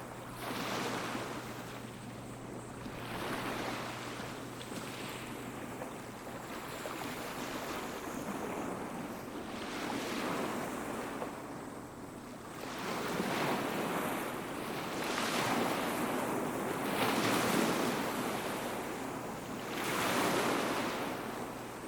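Small sea waves washing onto a beach, each wave rising and falling in a wash of surf every two to three seconds, the waves coming in louder in the second half.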